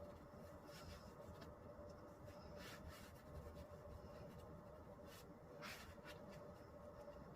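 Faint scraping strokes of a blade spreading Henry Feather Finish cement over a table top, a few scattered strokes over a steady low hum.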